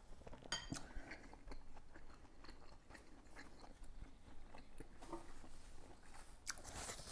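A person chewing food, faintly, with scattered small wet clicks and smacks.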